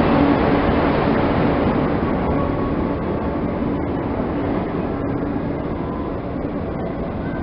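A train running through the station without stopping: a loud, steady rumble of wheels on rails that slowly fades, with a few faint steady tones in it.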